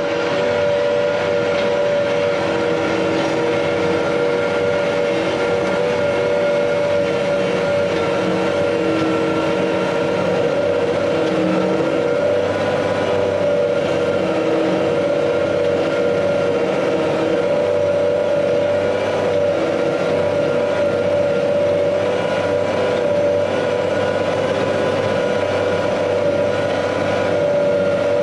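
Heavy harvest machinery running steadily: a constant engine and drivetrain drone with steady, unchanging whine tones.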